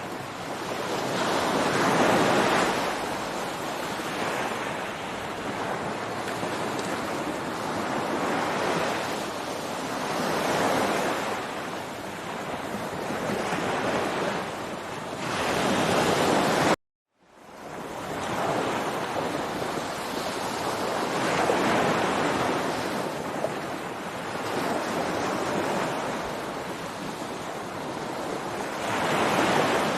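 Ocean surf breaking on a beach, the wash of waves swelling and easing every several seconds. About halfway through, the sound cuts out suddenly for a moment and fades back in.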